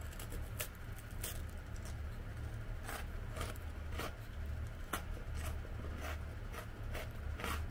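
Crunchy coconut sablé biscuit being chewed, with irregular crisp crunches roughly two a second over a low steady rumble.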